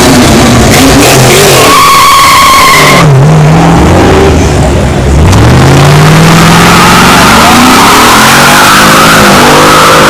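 A car doing a burnout: the engine revs hard, its pitch dipping and then climbing, while the spinning tires squeal. Very loud, with a shrill steady squeal about two seconds in.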